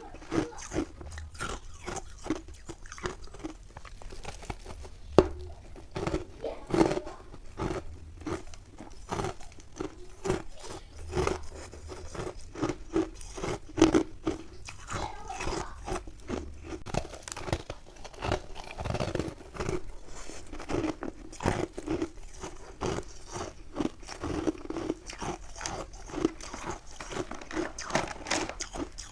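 Close-up biting and chewing of crunchy refrozen ice made with milk and matcha powder: a dense, irregular run of sharp crunches.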